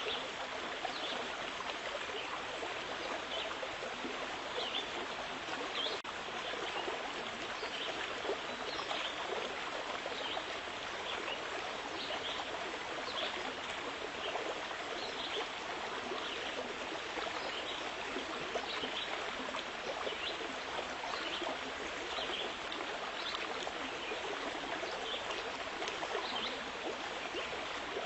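Steady running water, with many small trickling splashes.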